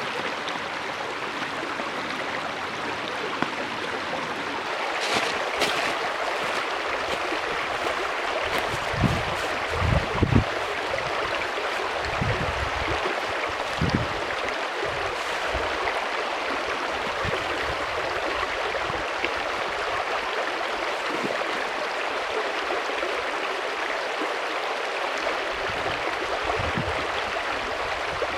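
Mountain stream rushing steadily, with a few soft low thumps around ten seconds in.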